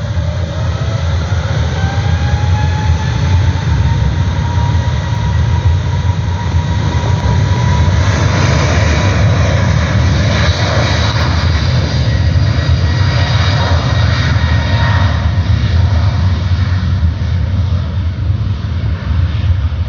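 Airbus A321neo's Pratt & Whitney PW1100G geared turbofan engines at takeoff power: a whine rising in pitch over the first few seconds as the engines spool up, over a loud, deep jet rumble that is loudest around the middle and eases slightly near the end.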